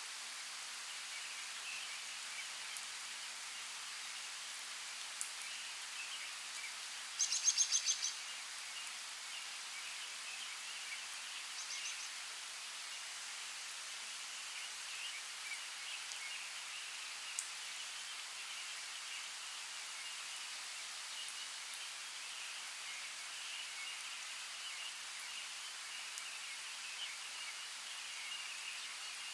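Forest ambience: a steady hiss under a continuous twittering of distant birds. About seven seconds in, a nearby bird gives a quick run of about half a dozen bright notes, and a shorter run follows around twelve seconds in.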